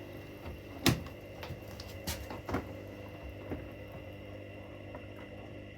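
Washing machines running mid-cycle: a steady motor hum with a few sharp clicks and knocks from the drum.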